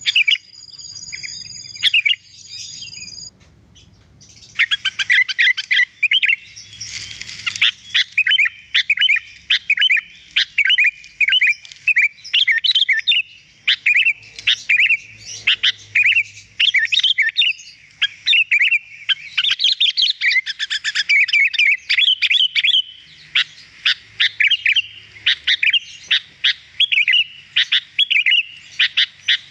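Sooty-headed bulbul (kutilang) singing. After a few high whistled notes and a short lull, it sings a long, rapid run of chirping notes with hardly a pause.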